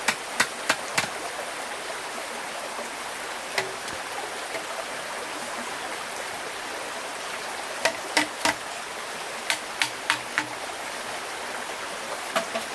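Steady rushing of a stream, with a scattering of short sharp knocks or clicks over it: a few in the first second, one alone, a quick run of six or so later on, and one near the end.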